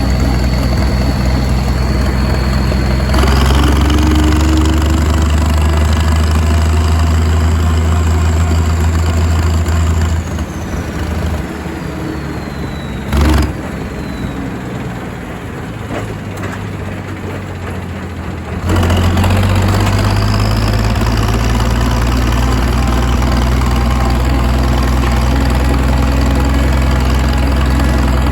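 Tractor engine running steadily, its sound stepping up and down abruptly a few times. In a quieter stretch midway, a high whine falls away and there is one short thump.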